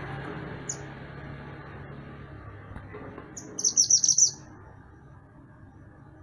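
Mantenan gunung songbird calling: a single short high chirp about a second in, then a quick burst of about six rapid high notes around the middle, over a steady low background rumble.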